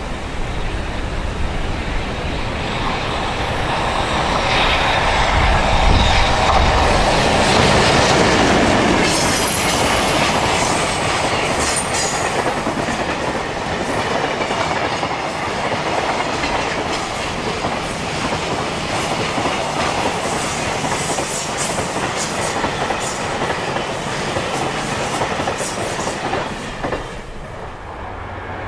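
An EH500 electric locomotive passes at speed hauling a container freight train, loudest a few seconds in as the locomotive goes by. Then comes the steady clatter of the container flatcars' wheels running over the rails, which fades near the end.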